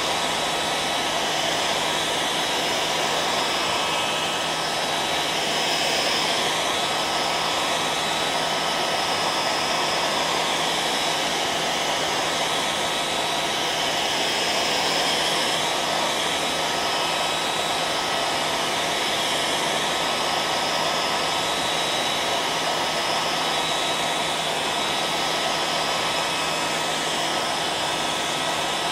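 Hair dryer running steadily: a constant rush of blown air with a steady high whine and a low hum beneath it.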